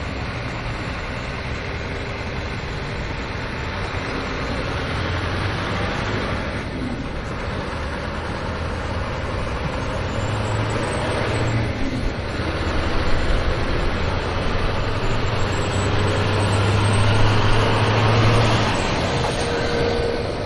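An engine running steadily with a low hum, growing louder in the second half and easing off near the end.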